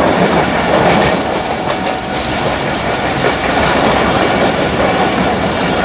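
Karachi Circular Railway passenger train running fast, heard from inside the carriage: a steady loud rumble and rattle of the wheels on the track, with a few sharp clicks through it.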